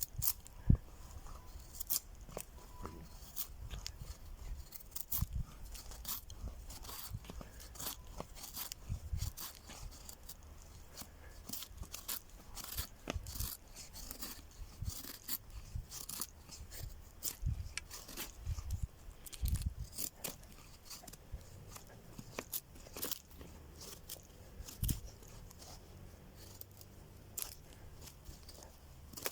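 Thin knife shaving curls off a wooden stick to make a feather stick for fire lighting: many short, irregular scrapes and crunches of the blade cutting wood, with an occasional low knock.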